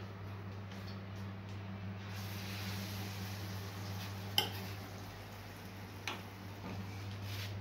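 Falafel frying in a small aluminium pan of hot oil: a soft, even sizzle, with a metal spoon clinking against the pan twice, about four and six seconds in. A steady low hum runs underneath.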